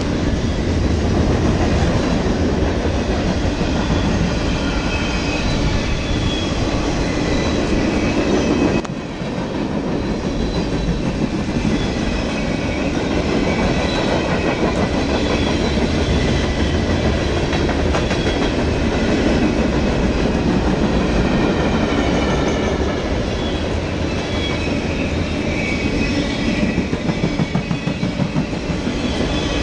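Freight cars of a mixed freight train rolling past on steel rails: a steady rumble of wheels on track, with faint high-pitched wheel squeal coming and going.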